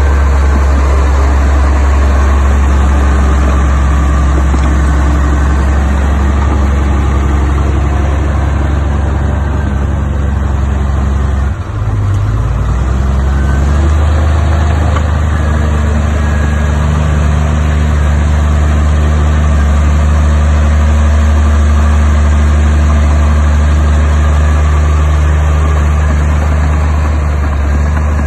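Heavy diesel engine of earthmoving machinery running steadily with a deep, low hum, with a brief dip and change in engine note about twelve seconds in.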